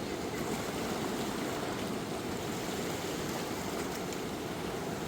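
Fast-flowing river water rushing past in a steady, even noise: a river swollen by flood.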